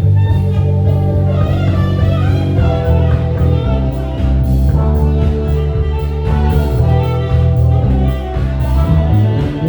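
Live band playing an instrumental passage: a guitar carries the melody over electric bass, drum kit and keys, with a strong, steady bass line.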